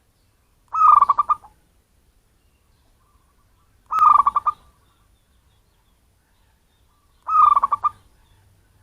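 Zebra dove (perkutut) cooing: three calls about three seconds apart, each a short falling note that breaks into a quick run of pulses. The recording is used as a lure call to attract wild birds.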